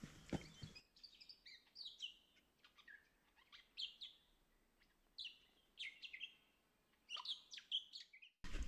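Small birds chirping: many short, separate high notes, some sliding down in pitch, over a quiet background. Hikers' footsteps on the track stop just under a second in and start again abruptly near the end.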